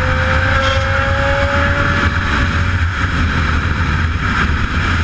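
A vehicle engine running loudly and steadily, with a deep low hum and a thin tone that sags slightly in pitch.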